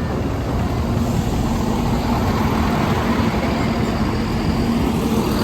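Diesel passenger train passing over a level crossing: a steady engine drone with a low rumble, with a held engine note setting in about a second in.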